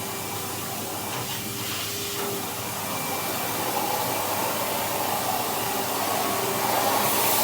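Vacuum cleaner with a brush attachment running steadily: a rushing hiss with a constant motor whine, getting a little louder over the second half.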